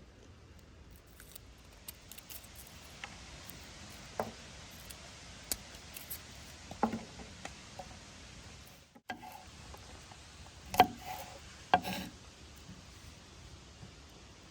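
Scattered light clicks and knocks of small hard objects being handled, with two louder knocks about three-quarters of the way through.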